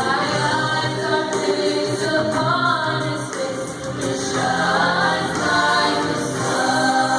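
A choir singing sustained notes that move from pitch to pitch.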